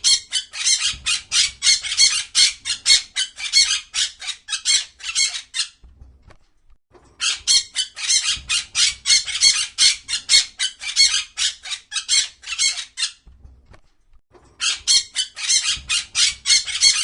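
A bird's high-pitched chattering call: rapid repeated notes, about four or five a second, given in three long bouts with short pauses between.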